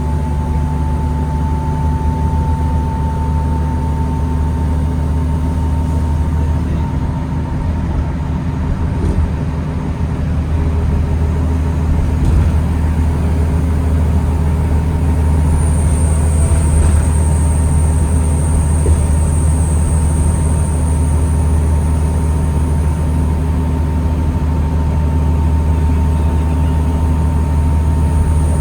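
2009 New Flyer D40LFR diesel transit bus running, heard from inside the bus: a steady low engine rumble with a steady mid-pitched whine over it. A thin high whine comes in about halfway through and drops back a few seconds later.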